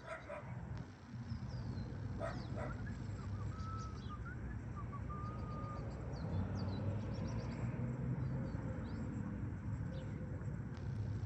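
A dog barking twice, near the start and about two seconds in, with small birds chirping throughout over a steady low rumble.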